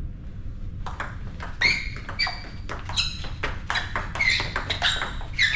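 A table tennis rally: the ball clicking sharply off bats and table in quick succession, starting about a second in.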